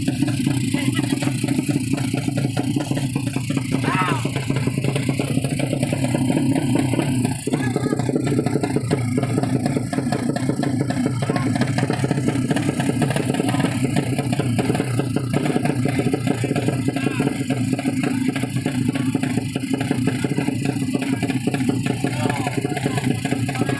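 Racing underbone motorcycle engine running at a steady speed, a loud, even drone with no big rise or fall in pitch.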